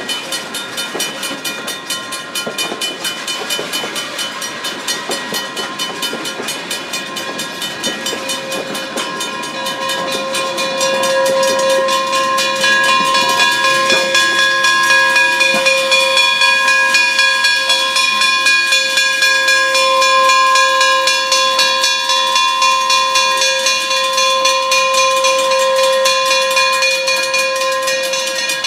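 Wilmington & Western No. 98, a 4-4-0 steam locomotive, working with an even pulsing beat. From about ten seconds in, a long steady high-pitched tone of several notes comes in, grows louder and holds to the end.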